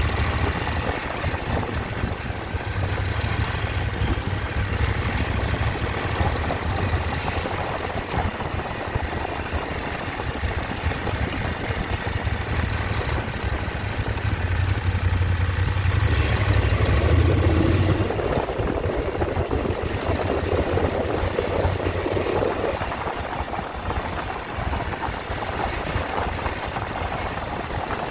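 Motorcycle engine running at idle, with a louder spell a little past halfway through.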